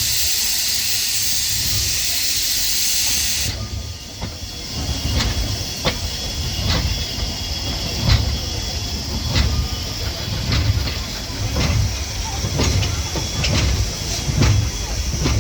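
Steam locomotive letting off steam in a loud steady hiss that cuts off suddenly about three and a half seconds in. After that come regular clicks and low thumps of the train rolling along the rails.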